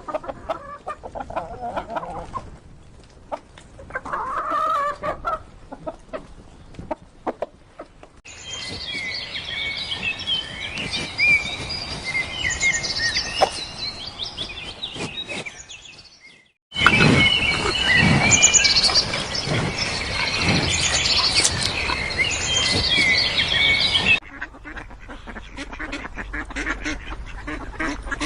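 Chickens clucking and chirping in several clips joined by hard cuts. The middle stretches hold a dense, high-pitched chorus of many birds chirping at once.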